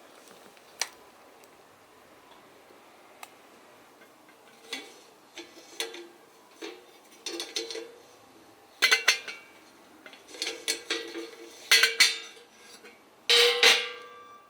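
Metal camping kettles being handled: lids and handles knocking and clinking in irregular clusters, each knock leaving a short metallic ring, loudest in the second half.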